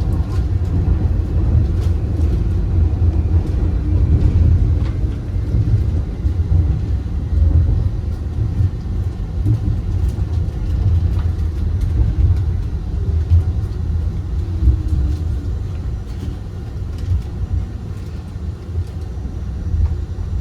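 Steady low rumble of a Wuppertal Schwebebahn suspension railway car running along its overhead rail, with faint scattered clicks; it eases a little near the end.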